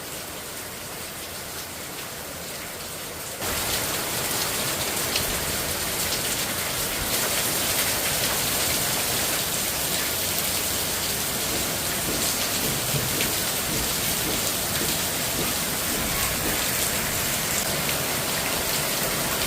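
Steady rain falling, an even hiss with scattered drop ticks, which turns suddenly louder about three and a half seconds in.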